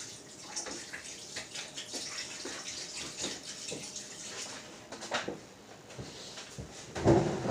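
Water splashing and sloshing in irregular small bursts as raw chicken is washed by hand in vinegar and water, with a louder knock near the end.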